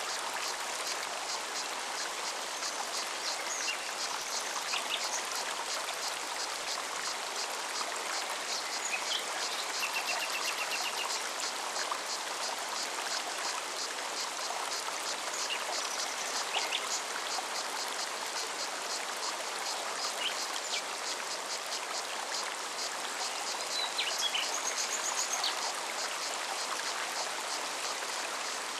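Forest stream flowing steadily. Birds chirp now and then, and a fast, high pulsing typical of a cicada runs through much of it.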